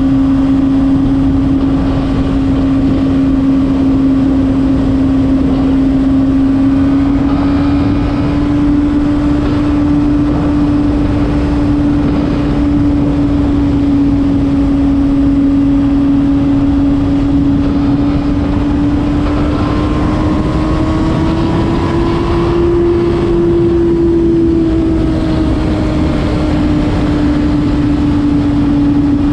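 Honda CBR600RR inline-four engine running at a steady high speed while riding, its note holding nearly level, rising slightly a little past two-thirds through and easing back, over a steady rush of noise.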